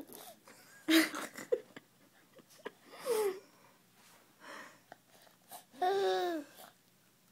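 Baby making his odd laugh-growl noises: several short breathy, raspy vocal bursts with pauses between, the longest and loudest near the end, its pitch falling.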